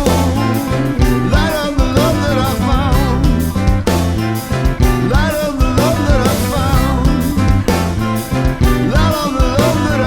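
Rock band playing: drum kit, bass and guitar over a steady beat, with a wavering lead melody on top.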